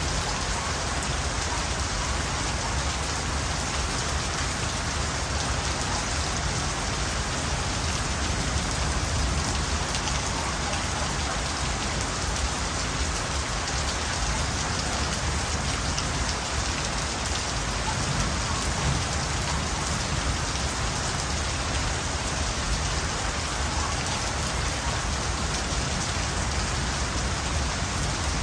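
Steady night rain falling on surfaces, an even rushing hiss with the patter of drops, unbroken throughout.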